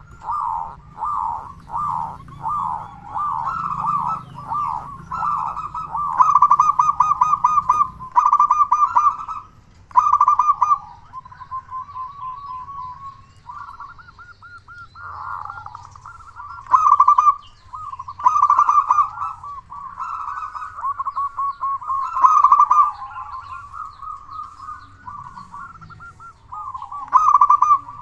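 Zebra dove (perkutut) singing, phrase after phrase of quick, pulsing coos.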